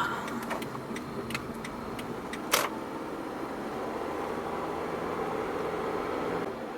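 Steady road and engine noise heard from inside a moving car's cabin, with a few scattered light clicks.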